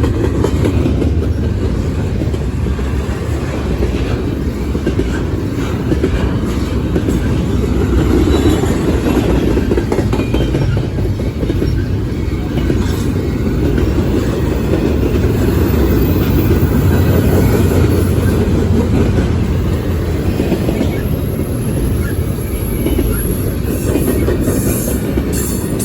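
Freight train cars rolling past close by: a steady, loud rumble of wheels on rail with clacking over the joints, and a faint high wheel squeal at times in the second half.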